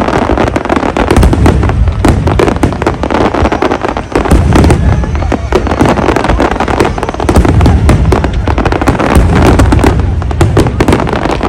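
Large fireworks display going off in a dense, continuous barrage: rapid cracks and crackling over a constant low rumble of bangs, with no gaps.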